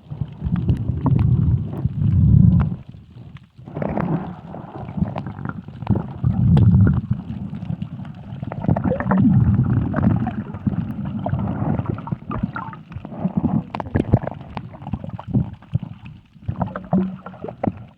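Water sloshing and splashing close to the microphone, in irregular low rumbling surges every couple of seconds with scattered sharp splashes.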